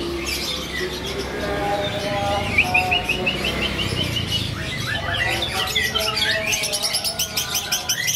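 Many caged songbirds chirping and singing together, short notes overlapping. One bird gives a quick run of short rising notes, and the chirping grows into dense, rapid trills in the second half.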